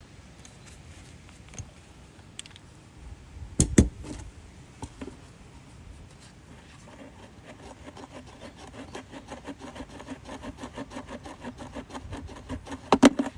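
Wrench working loose the drain plug on a Unimog portal axle. Metal-on-metal clicks come about four seconds in, then a steady run of rapid, even ticks, ending in a loud clack.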